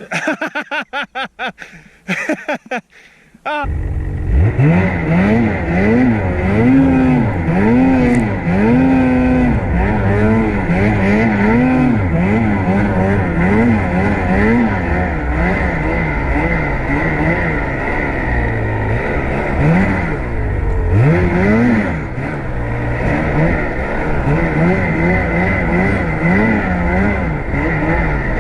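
Snowmobile engine running under load, its pitch rising and falling again and again as the throttle is worked. It starts suddenly about three and a half seconds in, after a few seconds of choppy, irregular noise.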